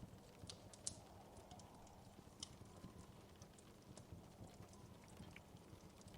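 Fireplace fire crackling faintly: irregular small pops and snaps over a low steady rumble, with one sharper snap about a second in.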